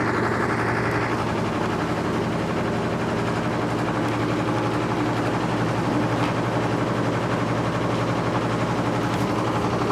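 Electrolux LT13B top-loading washing machine running its suspension test with a steady motor hum and a fast, continuous rattling from the suspension, which the title calls a lot of noise in the suspension.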